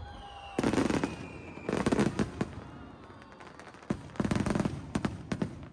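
Aerial firework shells bursting in a quick irregular series of booms, about half a dozen, with a thin falling whistle during the first second or so.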